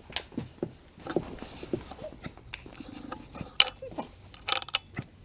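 Metal clicks and rattles of dog lead clips and collar fittings being handled as dogs are clipped onto their leads, with the sharpest clicks in the second half.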